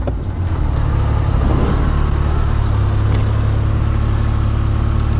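Off-road race car's engine idling steadily.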